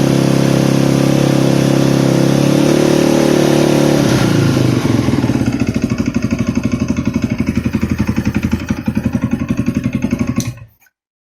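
Polaris Predator 500 ATV's single-cylinder four-stroke engine running fast and steady, then dropping about four seconds in to a slower, lumpy idle. It cuts off suddenly near the end as it is switched off.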